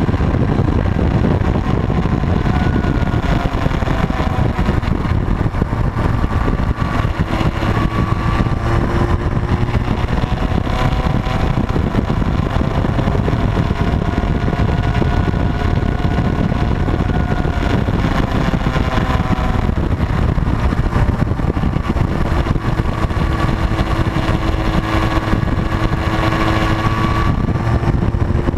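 Motorcycles running steadily at cruising speed, with a loud steady rush of road and wind noise and engine tones that slowly rise and fall with the throttle.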